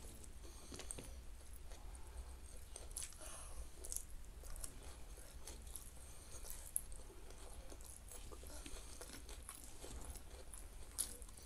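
Close-up chewing of a mouthful of rice and raw bean sprouts eaten by hand, with faint crunches and scattered wet mouth clicks, a few sharper ones standing out.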